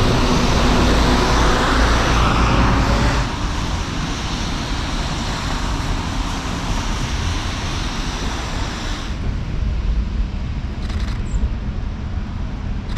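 City street traffic noise: vehicles on the road with a steady low rumble, louder and brighter for the first three seconds or so before dropping abruptly to a steadier hum.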